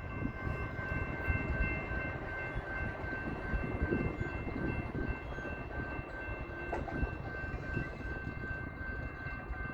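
Low, steady rumble of a BNSF freight train's diesel locomotives, with a steady high-pitched whine held over it.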